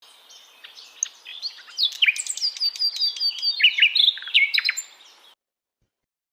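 A songbird singing a fast, varied string of chirps and short whistled notes, many sliding downward in pitch, which cuts off suddenly about five seconds in.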